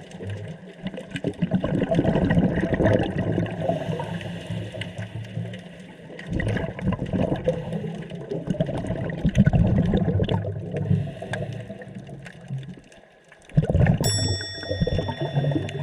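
Underwater rushing and gurgling of water in uneven surges, with a short lull near the end.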